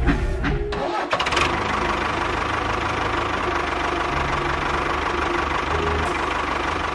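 An engine running steadily, coming in about a second in with a brief clatter.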